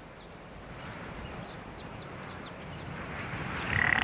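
Small birds chirping, many short high chirps over a steady outdoor background hiss, with a louder, shorter sound right at the end.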